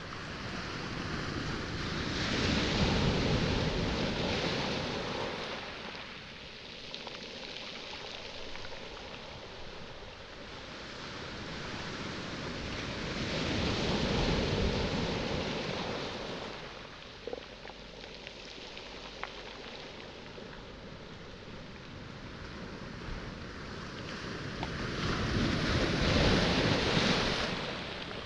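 Sea waves breaking and washing up a pebble shore, swelling and fading three times at intervals of about eleven seconds, with a few faint clicks between the swells.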